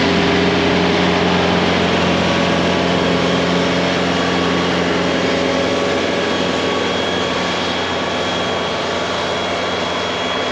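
Engine of a loader machine running steadily under load while it pushes snow. A faint high whine joins about halfway through.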